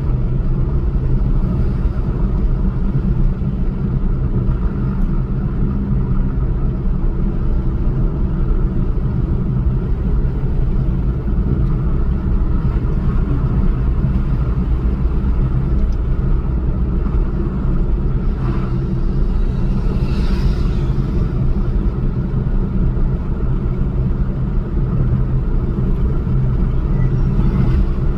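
Steady vehicle engine and road rumble. A short, higher-pitched rush of noise sounds about two-thirds of the way through.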